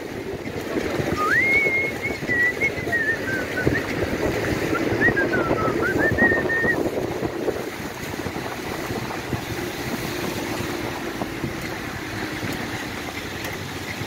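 Truck engine running as the truck lurches and rattles over a rough dirt road. A high, wavering whistle glides up and down over it for the first seven seconds or so, then stops.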